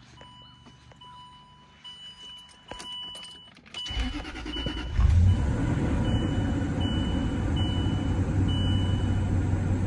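Dashboard warning chime beeping, then the 2008 Range Rover Sport's 4.4-litre V8 cranking about four seconds in, catching at about five seconds and settling into a steady idle on its first cold start of the day. The chime keeps beeping over the idle, the driver's door still being open.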